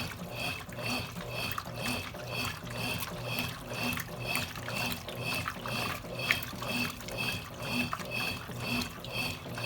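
Consul Cargo 8 kg washing machine running with water sloshing inside. There is an even swishing rhythm of about two to three pulses a second over a low hum.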